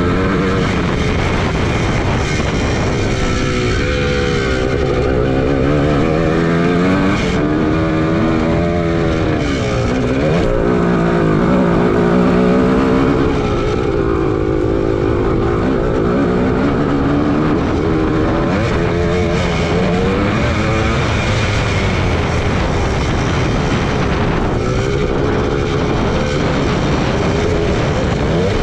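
1981 Suzuki PE250's single-cylinder two-stroke engine under way on a dirt track, revs repeatedly climbing and dropping as the rider accelerates and backs off through the turns.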